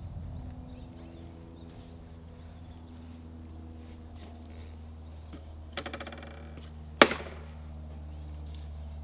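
Yamaha YZ250 two-stroke engine running quietly at idle, a steady low hum. A short rattle comes about six seconds in, and a single sharp knock about a second later is the loudest sound.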